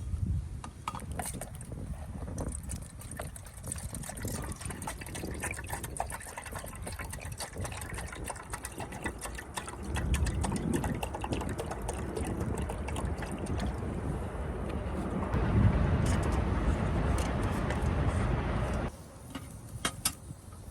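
Water pouring steadily into a container. The sound gets louder about halfway through and again later, then stops abruptly near the end.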